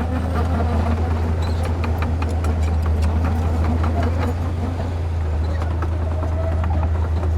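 A heavy diesel earthmoving machine running steadily with a deep drone. Frequent sharp clanks and knocks sound over it throughout.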